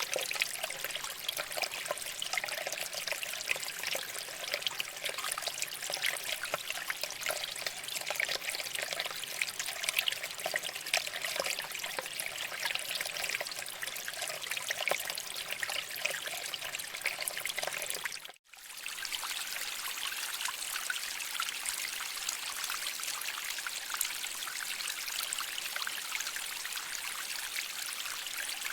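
Shallow water flowing and trickling over rocks, a steady, fine-grained babble. It drops out for a split second about two-thirds through, then carries on slightly softer.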